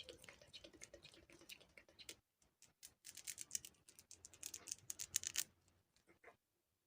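Close-up tapping and scratching at the microphone: a dense run of small crackly clicks, a short pause, then a louder run of sharp taps, trailing off into a few scattered taps near the end.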